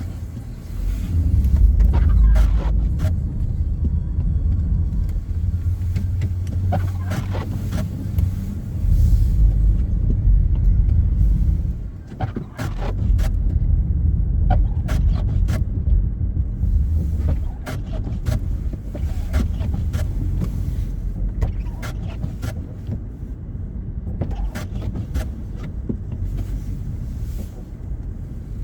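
Road noise from a car being driven: a steady low rumble with scattered sharp clicks and knocks.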